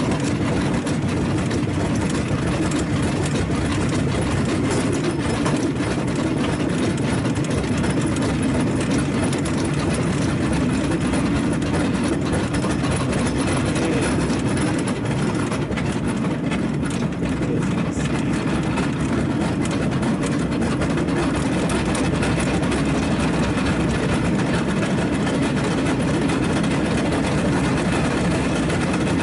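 Rail vehicle running steadily along the track: a continuous engine and rolling noise at an even level.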